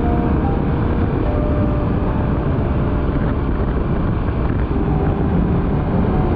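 Motorcycle underway at road speed: engine running steadily under a constant rush of wind noise.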